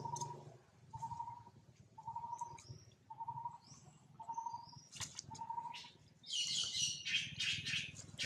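A bird repeating one clear, unchanging note about once a second. About six seconds in, a louder burst of dry-leaf rustling and scrabbling begins, made by macaques tussling in the leaf litter.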